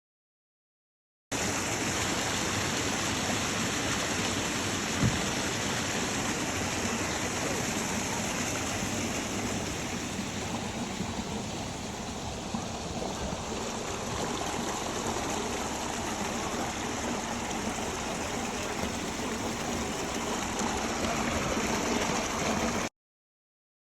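Rushing water of a stream or waterfall: a steady, even rush that starts about a second in and cuts off suddenly near the end, with one brief knock about five seconds in.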